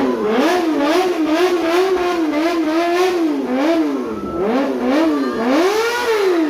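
Kawasaki Ninja ZX-4R's inline-four engine revved through its exhaust with quick repeated throttle blips, its high pitch rising and falling several times a second. Near the end it makes one longer rev that climbs and falls away.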